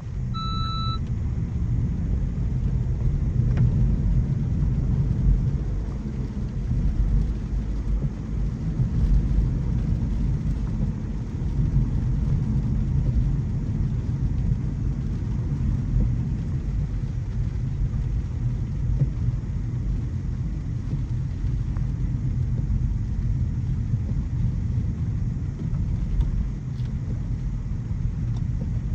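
Steady low road and tyre rumble of a 2025 Mercedes-Benz C300e being driven. A short electronic chime sounds just after the start.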